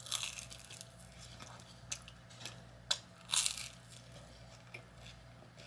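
Close-miked eating: food being bitten and chewed with several short crisp crunches, the loudest about three and a half seconds in.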